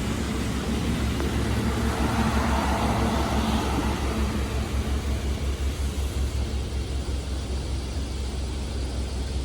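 Kintetsu electric train running past on the line, a steady rumble that is loudest a few seconds in and then slowly dies away.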